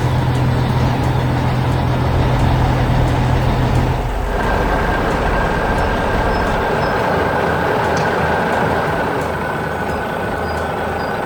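Heavy construction-vehicle engine running steadily. About four seconds in the low drone drops away and a steady high whine joins the noise.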